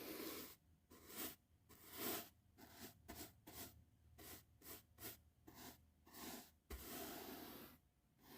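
Soft brush strokes swishing over the microphone, about two quick strokes a second at an uneven pace, with a light low bump about two-thirds of the way through.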